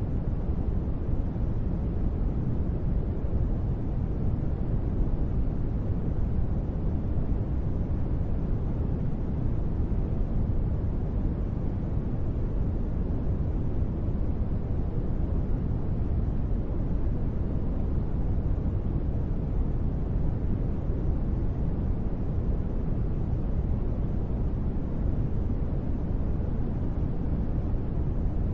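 Steady sleep noise track, billed as gentle rain white noise: an even, unchanging rush with its weight in the deep end and little treble, with no separate drops, thunder or music.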